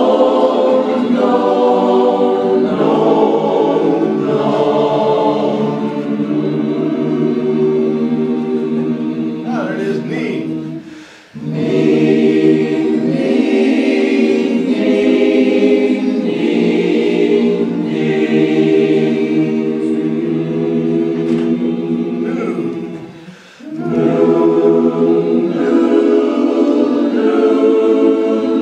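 Barbershop-style a cappella chorus singing in harmony, with two short breaks for breath, about eleven seconds in and again about twelve seconds later.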